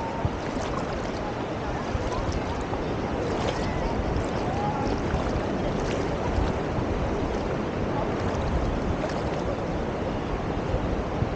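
Beach ambience: steady surf with wind buffeting the microphone.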